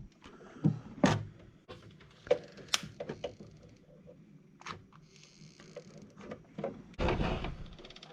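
Scattered light clicks and taps of small plastic parts being handled on a workbench, with a short rustling scrape near the end.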